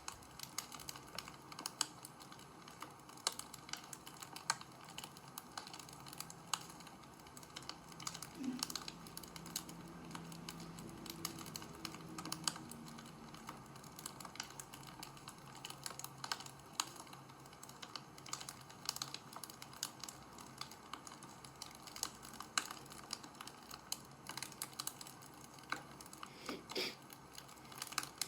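Wood fire crackling, with dense irregular snaps and pops over a soft steady hiss.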